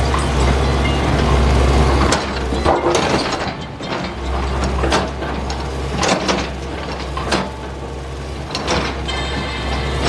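John Deere excavator's diesel engine running, with repeated sharp knocks and scraping of rock against the steel bucket. The low engine hum drops back about two seconds in and comes up again a couple of seconds later.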